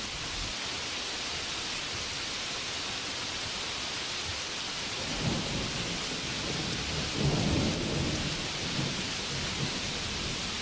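Steady rainfall with a low rumble of thunder about halfway through and another, slightly louder, a couple of seconds later.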